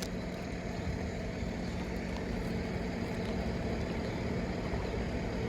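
A steady low mechanical hum with a faint steady tone running through it, like a vehicle idling.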